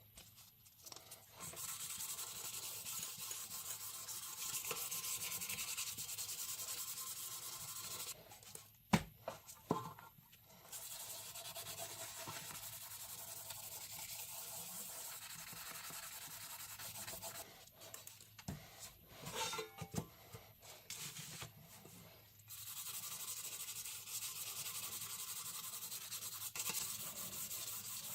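Sanding of a rusty metal toy truck part: steady scratchy rubbing in three long stretches, with short pauses between them that hold a few knocks and clicks as the piece is handled.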